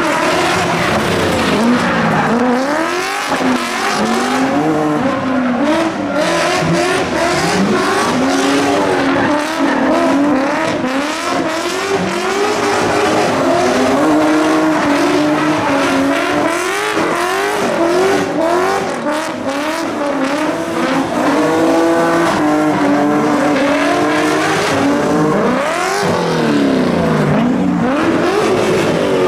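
Rally car engines revving hard through the stage, the pitch climbing and dropping again and again with throttle lifts and gear changes. Near the end the pitch swoops up and down as cars pass.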